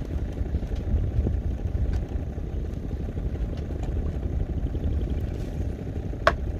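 A boat engine running steadily with a low rumble, and a single sharp click near the end.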